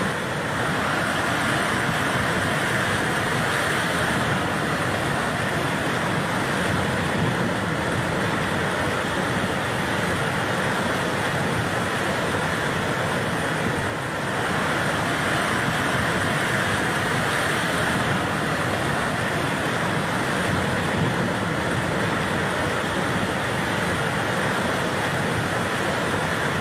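Fast-flowing floodwater rushing, a steady, even wash of noise with a brief dip about halfway through.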